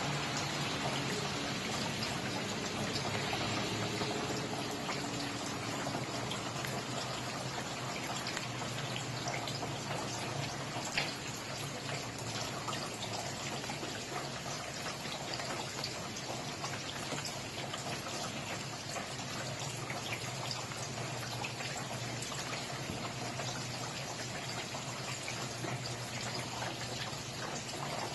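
Steady rain falling, an even hiss dense with the small ticks of individual drops, with one sharper drop tick about eleven seconds in.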